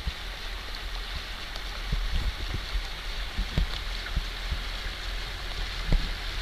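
Steady hiss of rain falling on lake water over a low rumble, with scattered soft knocks, the loudest about six seconds in.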